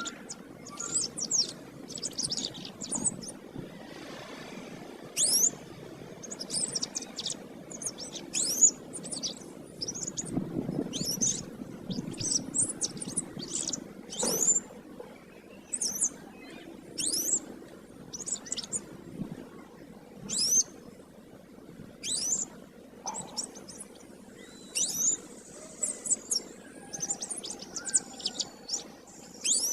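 Domestic canary singing in full voice: quick bursts of sharp, high, sweeping chirps and trills, one phrase after another, over a low steady hum.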